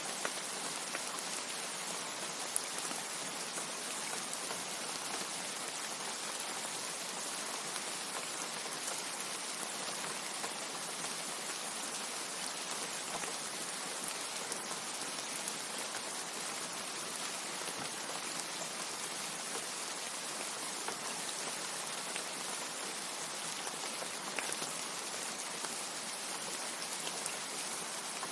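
Steady rain: an even, hissing wash with small sharp drop ticks scattered through it.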